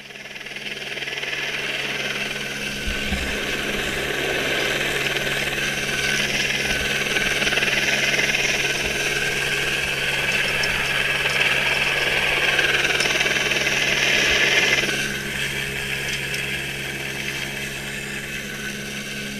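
Helicopter running steadily, a constant engine hum with a hissing whine above it. The sound eases off somewhat about three quarters of the way through and then cuts off abruptly.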